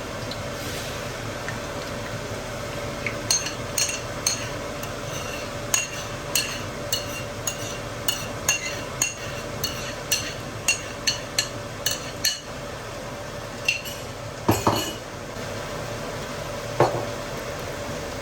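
A utensil stirring and clinking against a dish, about two ringing clinks a second, over a steady hum. Two duller knocks follow near the end.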